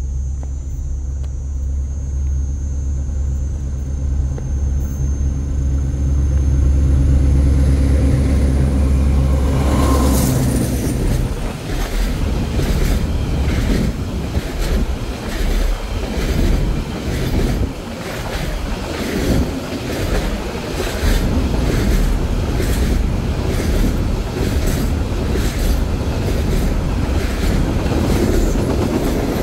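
Container freight train passing on the track beside the platform. A diesel locomotive's engine drone builds as it approaches and goes by about ten seconds in, then a long string of container flatcars rolls past with a steady rhythmic clacking of wheels over the rail joints.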